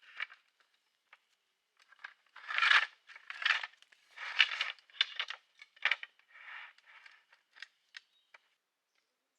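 A series of short rustling and scraping handling noises, ending with a few sharp clicks.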